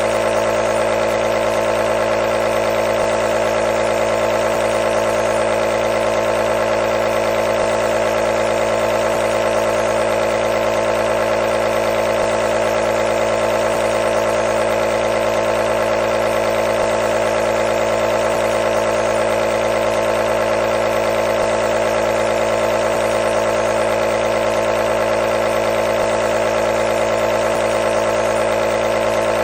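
Nebulizer compressor running steadily: a continuous, even mechanical hum with a strong mid-pitched tone.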